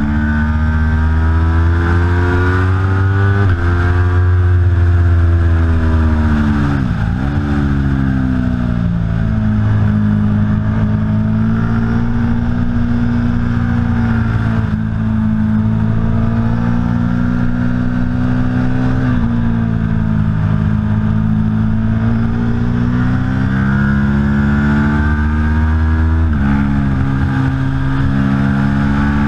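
Aprilia Tuono V4 Factory's V4 engine at full throttle on track, its pitch climbing and then dropping abruptly at each upshift. About seven seconds in, the revs dive sharply and climb straight back as it slows for a corner and accelerates out again.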